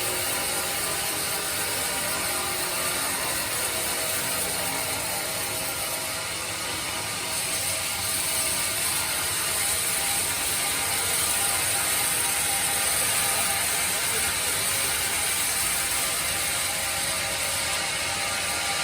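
Band sawmill running with its blade cutting lengthwise through hard teak, a steady, dense mechanical noise. The high-pitched hiss grows stronger about seven seconds in.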